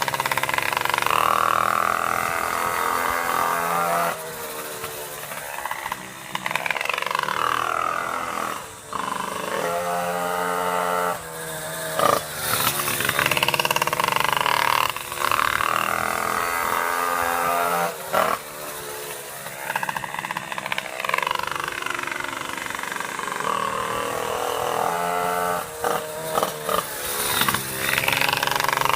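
Pocket bike's small two-stroke engine, run in on its second tank, revving around a kart track. Its pitch climbs and falls over and over, with sudden drops as the throttle shuts several times.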